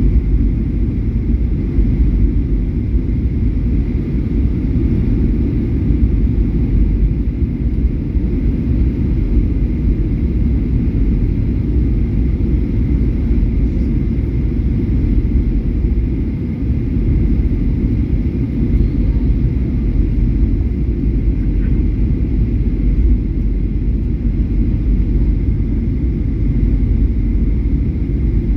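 Steady low rumble of a Boeing 737-800 jet airliner, with a faint thin high tone above it.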